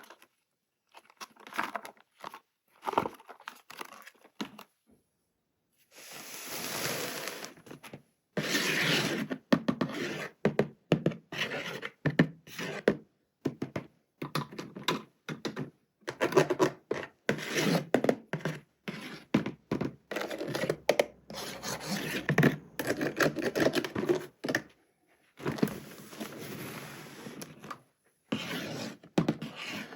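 Toy packaging being opened and handled by hand: cardboard and plastic scraping, rustling and knocking in an irregular run of short bursts. A longer continuous stretch comes a few seconds in and again near the end.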